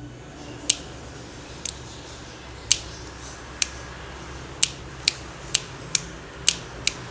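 About ten sharp plastic clicks from a repaired power-strip switch being handled and worked, spaced irregularly and coming faster in the second half, over a low steady hum.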